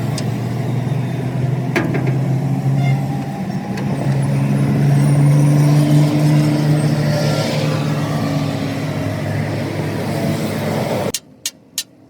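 Large truck engine running steadily, rising a little in pitch and level around the middle, then cut off abruptly near the end, followed by a few sharp, evenly spaced clicks.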